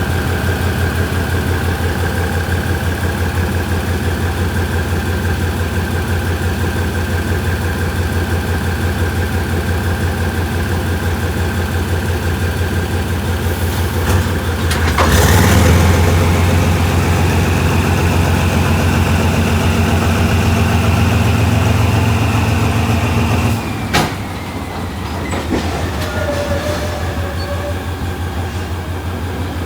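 Diesel train engine running with a steady low hum; about halfway in it revs up and holds at a higher pitch for several seconds, then drops back abruptly, followed by a sharp click.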